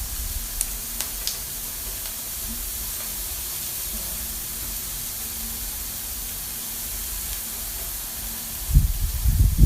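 Pork belly sizzling on a hot tabletop grill: a steady hiss with a few small pops in the first second or so. Low rumbling bumps come in near the end.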